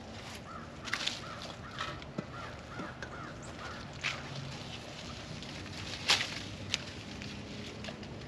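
A bird calling several times in quick succession in the first few seconds, then a few sharp clicks and knocks as pears are picked off the tree and dropped into a metal bowl.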